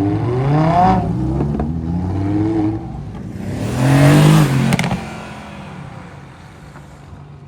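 Performance car engine revving and accelerating, its pitch rising in pulls. It surges to its loudest about four seconds in with a few sharp cracks, then fades as the car drives away.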